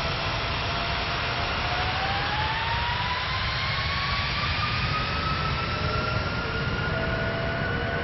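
Airbus A319's CFM56 jet engines spooling up: a whine that starts rising in pitch about two seconds in and keeps climbing, over a steady roaring rumble.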